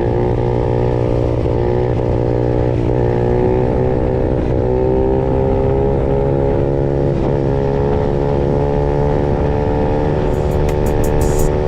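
Honda CRF50 mini bike's engine running at a steady high speed, its pitch holding nearly level with a few brief wobbles.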